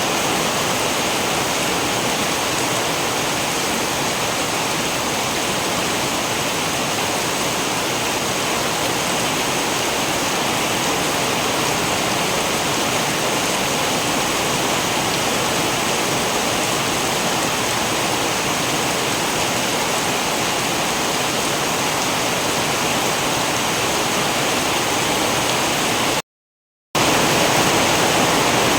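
Steady heavy rain, an even, dense hiss. About 26 seconds in it cuts out completely for under a second, then comes back slightly louder.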